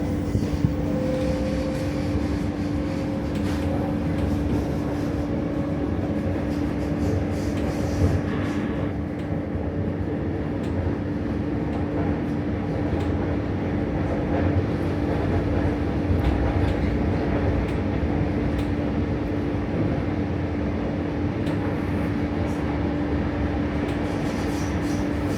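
ÖBB regional train running along the line, a steady rumble with a constant hum tone over it. A fainter whine rises slowly in pitch over the first few seconds, and a sharp knock comes about 8 seconds in.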